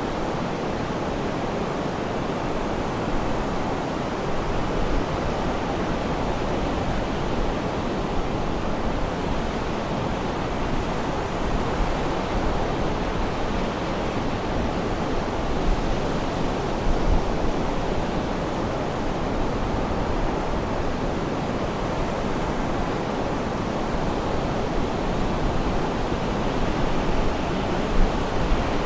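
Sea surf washing on a shore: a steady, even rush of wave noise with slight swells in loudness.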